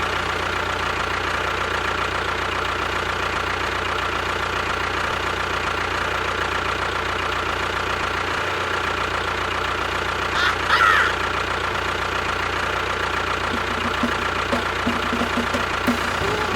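A small motor or engine running steadily at an even, unchanging pitch, with a short squeak about ten seconds in.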